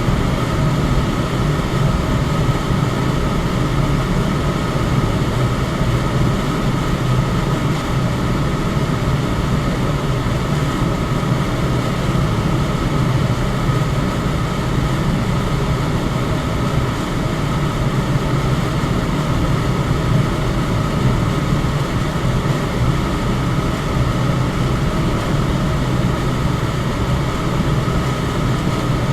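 Electric fan running steadily: an even rush of moving air, strongest in the low range, with a faint steady tone above it and no change throughout.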